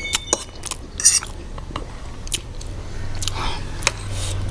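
Close-miked eating sounds: biting and chewing, heard as a string of sharp, wet mouth clicks and smacks at irregular intervals.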